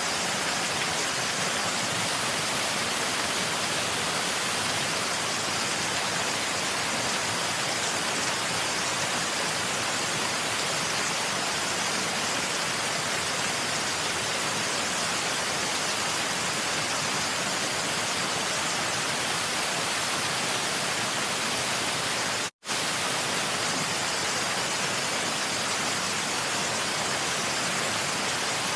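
Waterfall: a steady, even rush of falling water, stronger in the highs than the lows, broken once by a split-second dropout to silence about three-quarters of the way through.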